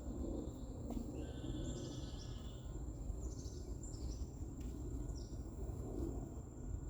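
Outdoor ambience: a steady low rumble with scattered short, high bird chirps that slide downward in pitch, and a faint steady high whine.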